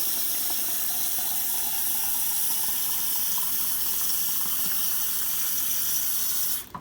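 Water being poured from a container into a tabletop fountain's basin: a steady splashing pour whose pitch rises slowly as the basin fills. The pour stops abruptly near the end.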